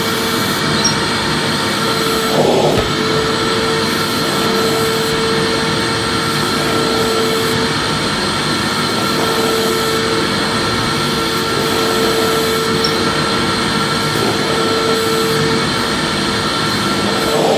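Vacuum cleaner running steadily: a constant rush of air with a steady motor whine, wavering briefly about two and a half seconds in.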